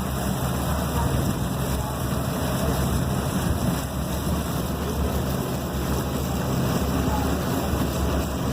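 Boat engine running steadily under way, with a steady low hum, water rush and wind on the microphone.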